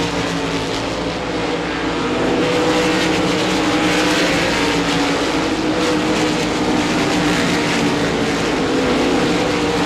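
A field of RaceSaver sprint cars racing flat out on their 305 cubic inch V8 engines, a steady, loud engine drone that holds its pitch, on the final lap.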